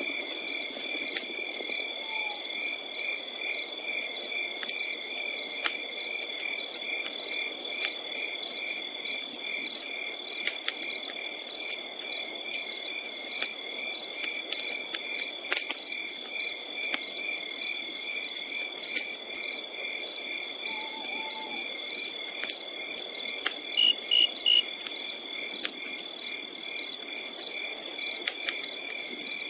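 Night insects, crickets, chirping in an even repeating pulse over a constant high trill, with scattered sharp crackles and pops from a campfire and its soft hiss beneath.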